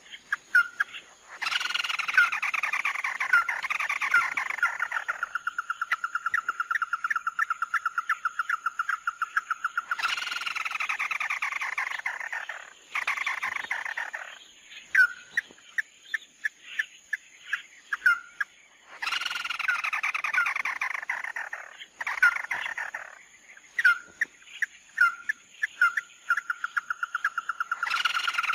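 Recorded calls of the bird that Vietnamese trappers call "mắt đỏ", used as a trapping lure. Bouts of harsh, falling calls give way to long, fast trills of one repeated note, with single sharp notes between the bouts. A faint, steady high whine sits under the calls.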